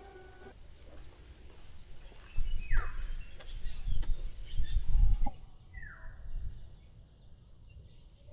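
Small birds chirping, with two short falling whistled calls, over a loud low rumble from about two to five seconds in.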